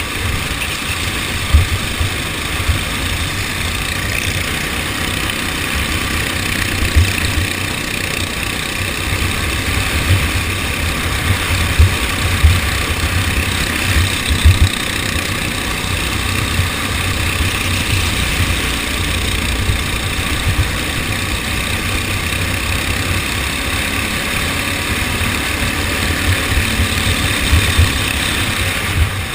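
Go-kart engine running steadily during a race, under a strong low rumble with occasional sharp bumps.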